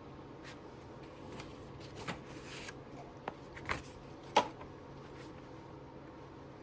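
Light handling sounds: soft rustling with a few short clicks and taps, the sharpest about four and a half seconds in.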